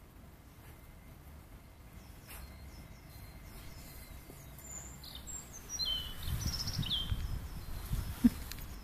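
Small birds chirping: a run of short, falling chirps from about five to seven seconds in, over a faint outdoor hush. A low rumble joins in about six seconds in, and a single sharp knock comes near the end.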